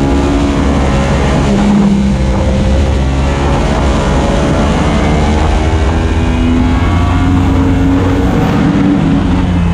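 Yamaha R1M's crossplane inline-four engine running hard through a series of corners, its pitch dipping and rising with the throttle, over steady wind rush.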